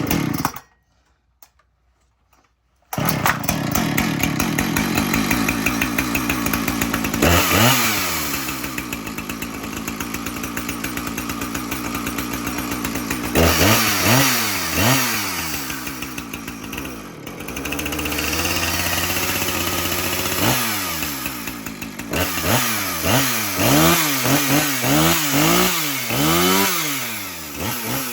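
Cold start of a 2019 Husqvarna 455 Rancher two-stroke chainsaw, started on choke with the decompression valve pushed in. It catches about three seconds in and runs steadily, is revved up and down a few times, and near the end is revved in many quick blips.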